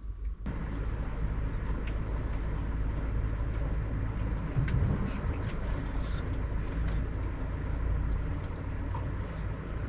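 Steady vehicle engine and road noise from the kei-truck camper on the move, a low rumble starting about half a second in.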